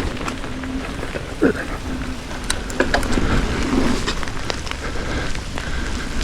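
Steady rain, with scattered sharp drop ticks over a low rumble.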